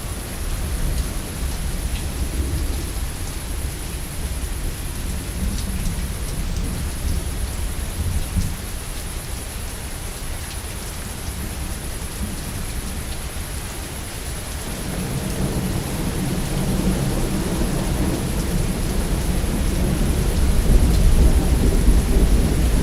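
Steady rain with low rolling thunder; the thunder swells and grows louder about two-thirds of the way through.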